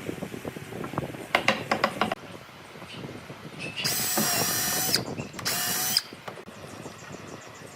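A quick run of ratcheting clicks, then a small power tool, like a drill, running in two short bursts with a steady whine: the first about a second long, the second about half a second, with light knocks of work on wood in between.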